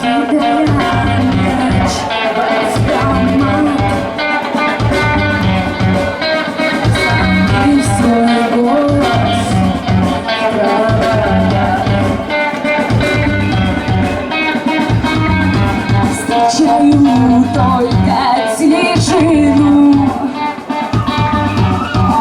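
Live rock band playing loud, with electric guitar, bass, drums and singing. The music dips briefly near the end and carries on.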